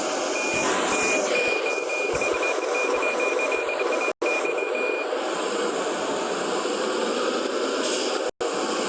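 Cargo truck running steadily, with a string of high warning beeps at one pitch that stops about five seconds in. The sound cuts out for an instant twice.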